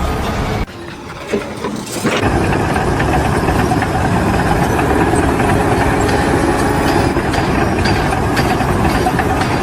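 An engine running steadily, with a short quieter gap about a second in.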